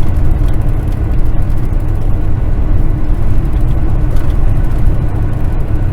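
Steady low rumble of a Kenworth semi truck's diesel engine and tyre noise heard from inside the cab while driving at an even pace on the highway, with a faint steady hum above the rumble.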